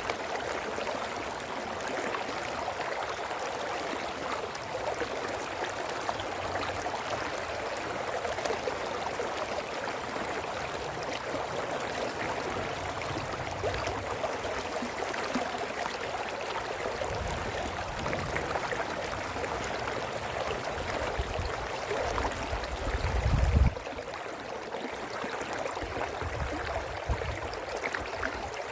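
Brook water babbling steadily over stones. A low rumble swells in the second half, peaks and cuts off abruptly about 24 seconds in.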